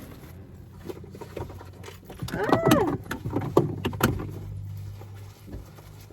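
Small clicks, knocks and rustles of items being handled in a small bag, over a faint steady hum. About two and a half seconds in there is a short high-pitched call that rises and falls, like a brief squeal from a voice or an animal.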